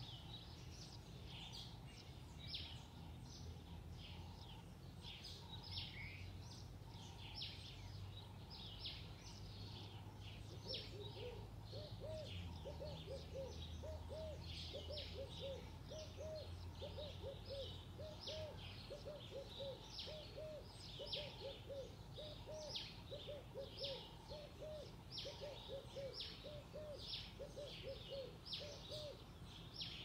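Birds singing in the trees: short, high chirps repeated about twice a second. About ten seconds in, a lower call joins, repeated quickly. A faint, steady low rumble of background noise lies underneath.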